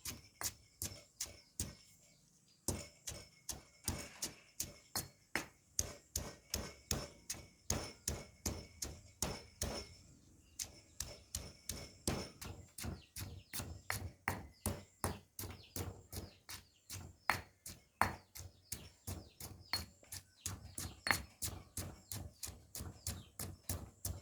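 A knife chopping on a cutting board in a steady run of quick strokes, about three a second, with short pauses about two seconds in and about ten seconds in.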